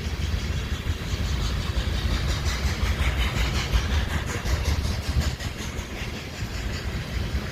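A train rolling by: a steady low rumble, with a quick, regular clatter for a few seconds in the middle.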